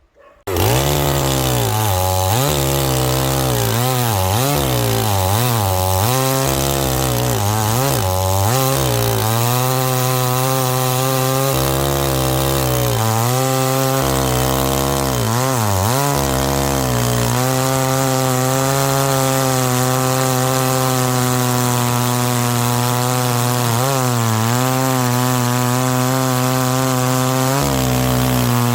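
Two-stroke gasoline chainsaw cutting firewood, starting abruptly about half a second in. The engine pitch dips and recovers again and again as the chain bogs in the wood, then holds steadier through the second half with only a few dips.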